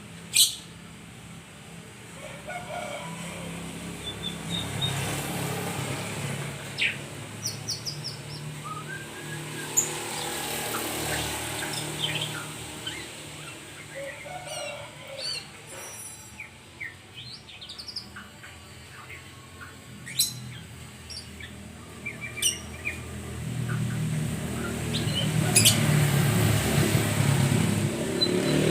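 A murai songbird chirping and calling: scattered short whistled notes and quick sweeps with a few sharp loud clicks, over a low steady rumble that grows louder near the end.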